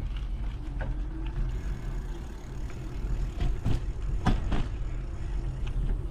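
A bike ride on a trail, heard from a mounted action camera: steady low rumble and wind on the microphone, with several sharp knocks and rattles, the loudest a little after halfway.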